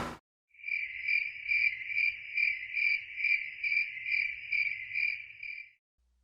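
A cricket-like insect trill: a single high, steady tone that swells and fades about two to three times a second, then stops shortly before the end.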